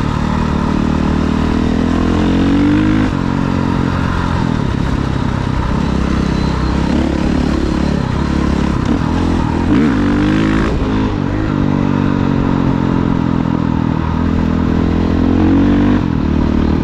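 Off-road vehicle engine running under way, its revs climbing and dropping several times as throttle is applied and eased off.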